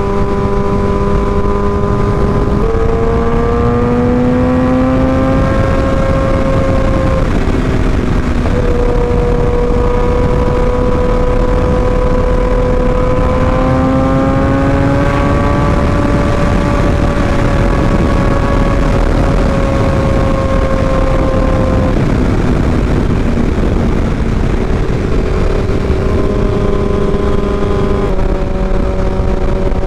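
Sport motorcycle engine running at highway cruising speed, its note slowly rising and falling with the throttle and dropping sharply a few times, over steady wind rush.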